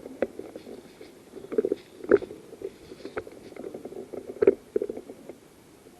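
Irregular rustling and crackling of a person moving through woodland brush, with a couple of sharper, louder cracks.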